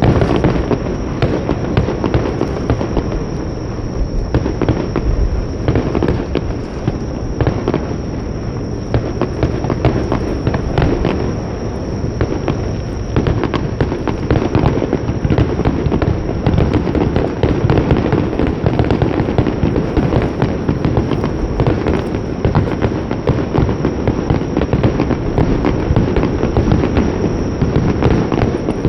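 Aerial fireworks bursting in a dense, continuous barrage: many overlapping deep booms and crackles with no real pause.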